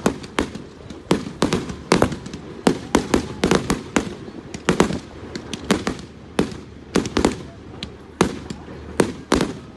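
Fireworks going off: an irregular, rapid run of sharp bangs and cracks, about two to three a second.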